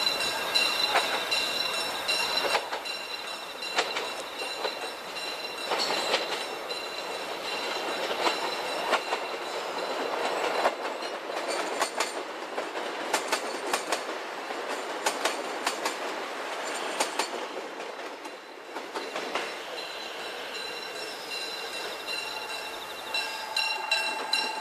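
Korail CDC diesel commuter train running past on the track, with its wheels clicking over the rail joints in a regular run for several seconds midway.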